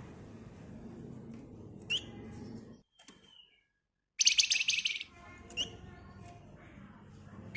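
Javan fulvetta (flamboyan) singing: a few short sharp chirps, then about four seconds in a fast, dense rattling trill lasting under a second.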